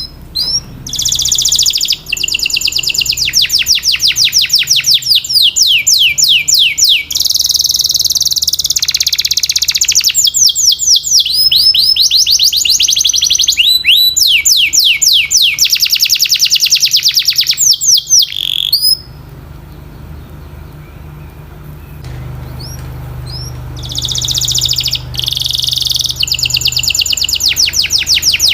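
Canary singing a long, loud song made of rapid rolls of repeated notes, the pace and pitch shifting from roll to roll. The song breaks off for a few seconds about two-thirds of the way through, then starts again.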